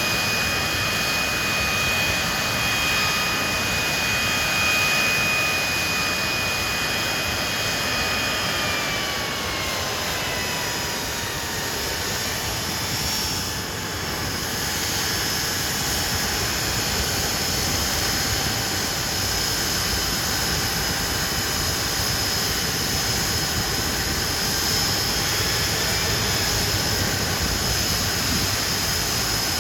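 Hawker Siddeley Nimrod's Rolls-Royce Spey jet engines running with a steady roar and high whine. About a third of the way in the whine glides down in pitch as the power is eased back, then holds steady at the lower setting.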